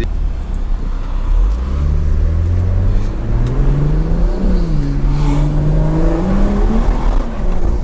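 Tuned BMW 340i's turbocharged B58 inline-six accelerating hard: the engine note climbs for a few seconds, drops sharply at an upshift about four and a half seconds in, then climbs again before easing off near the end.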